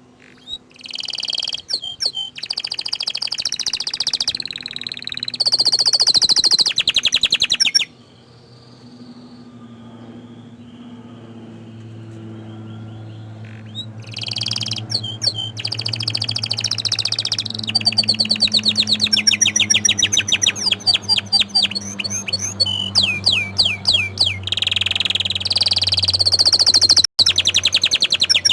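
Orange frost canary singing: long phrases of rapid trills and rolls, broken by a pause of several seconds about a third of the way in before the song resumes.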